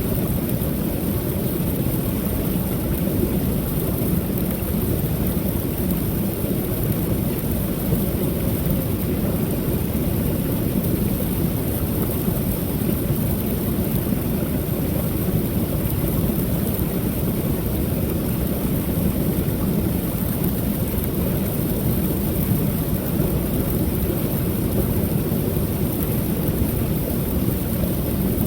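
Waterfall on a creek: water falling over the ledges with a steady, unbroken rushing, weighted toward a low rumble.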